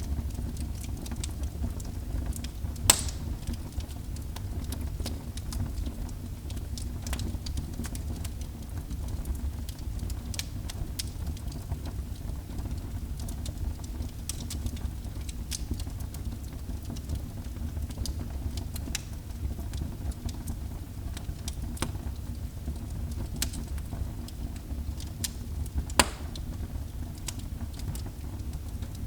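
Fire burning in a fireplace: a steady low rumble of the flames with scattered crackles, and two sharper pops, one about three seconds in and one near the end.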